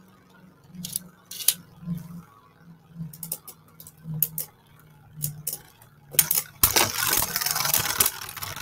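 Beyblade Burst spinning tops battling in a plastic stadium: a low pulsing hum under scattered sharp clacks as they knock into each other and the walls, then a dense, loud clatter of rapid collisions for the last couple of seconds.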